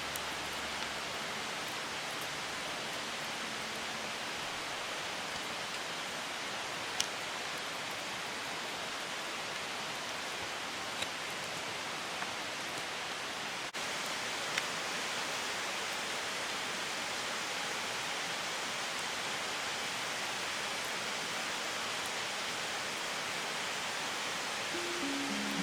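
Steady rushing noise of running water, with a few faint ticks and a brief break about halfway through.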